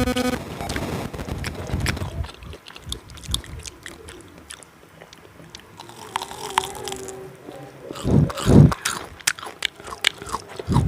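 Close-miked eating of tteokbokki and cheese sticks: bites and chewing with many sharp, wet mouth clicks. The chewing is heaviest about eight seconds in.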